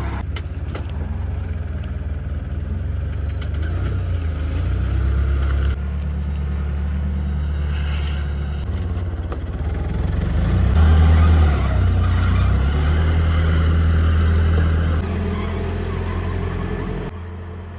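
A vehicle engine running at low speed, its low hum shifting in level now and then. It is loudest about eleven seconds in, and the sound changes abruptly a few times.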